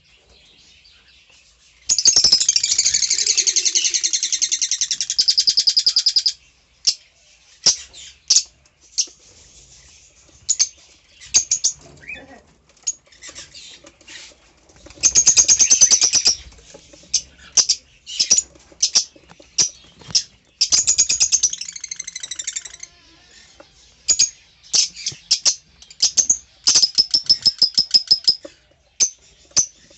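A flock of caged lovebirds chirping and chattering in shrill bursts, with dense outbursts of chatter about two seconds in, around the middle, and again later, and many short single chirps in between.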